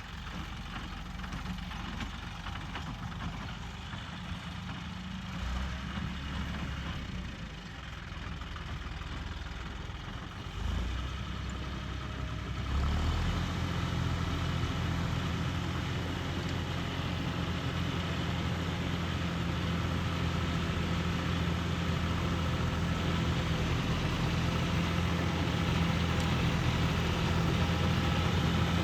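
John Deere 5310 tractor's diesel engine running steadily. About halfway through it turns abruptly louder and fuller, then keeps growing slowly louder toward the end.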